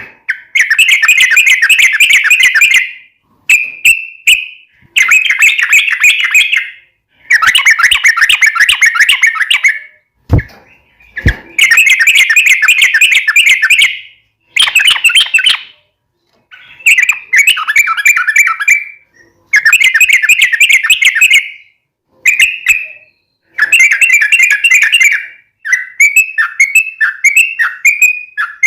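Yellow-vented bulbul singing loud, repeated bursts of rapid chattering notes, each burst two to three seconds long with short pauses between. Near the end the song breaks into quicker, separate down-sliding notes.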